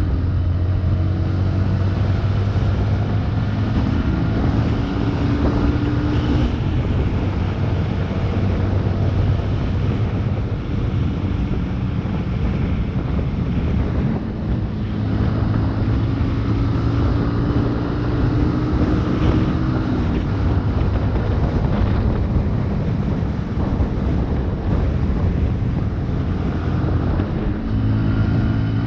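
Motorcycle engine running under way, its note holding steady and climbing gently in stretches, then dropping away about six and twenty seconds in. Wind rushes over the microphone throughout.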